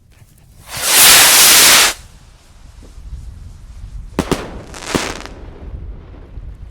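Firework skyrocket launching with a loud rushing hiss lasting about a second, then, a few seconds later, a few sharp cracks and a short crackling burst as it bursts overhead.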